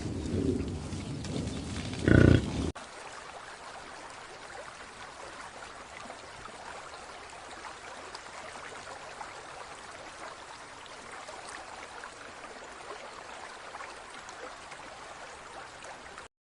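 Farm animal grunting and calling, with one loud call about two seconds in, cut off abruptly; after that only a steady faint hiss.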